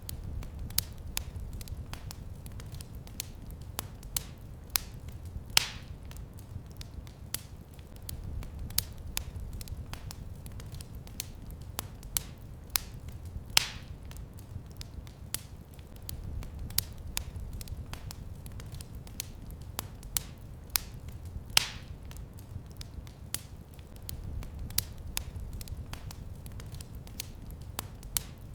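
Wood fire crackling in a fireplace: frequent small snaps over a low steady rumble, with a louder pop about every eight seconds.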